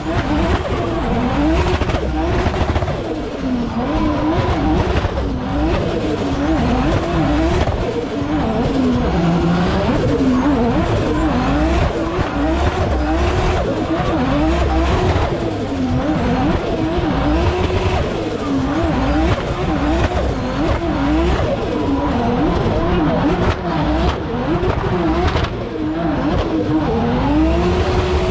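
Turbocharged Mercedes M104 straight-six engine in a drift car, revved hard and let off again and again as the car is thrown through a gymkhana course, its pitch rising and falling every second or so, with tyres squealing as the car slides.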